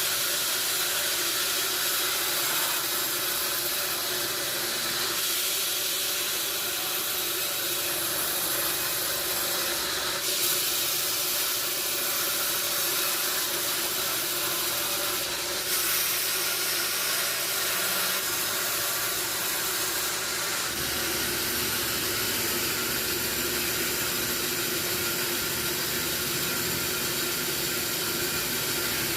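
Sawmill machinery running steadily, a constant hissing noise with a low steady hum underneath, shifting slightly a few times.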